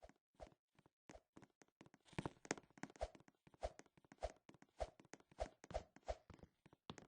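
Faint clicks and taps, with a soft thump about every half second or so from about two seconds in.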